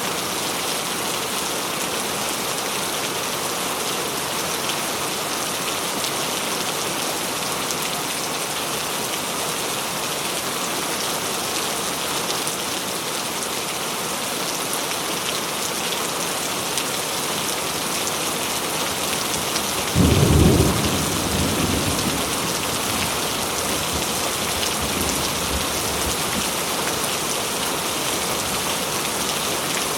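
Steady heavy rain falling on a surface, with one sudden thunderclap about two-thirds of the way through, which rumbles away over a couple of seconds.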